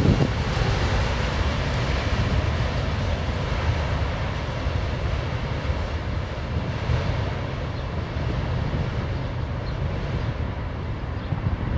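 Rumble of a freight train's autorack cars rolling past on the rails, slowly fading as the end of the train moves away.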